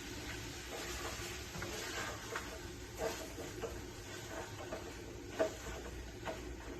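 A few light clicks and knocks, the sharpest about three seconds in and again about five and a half seconds in, over a steady low hum.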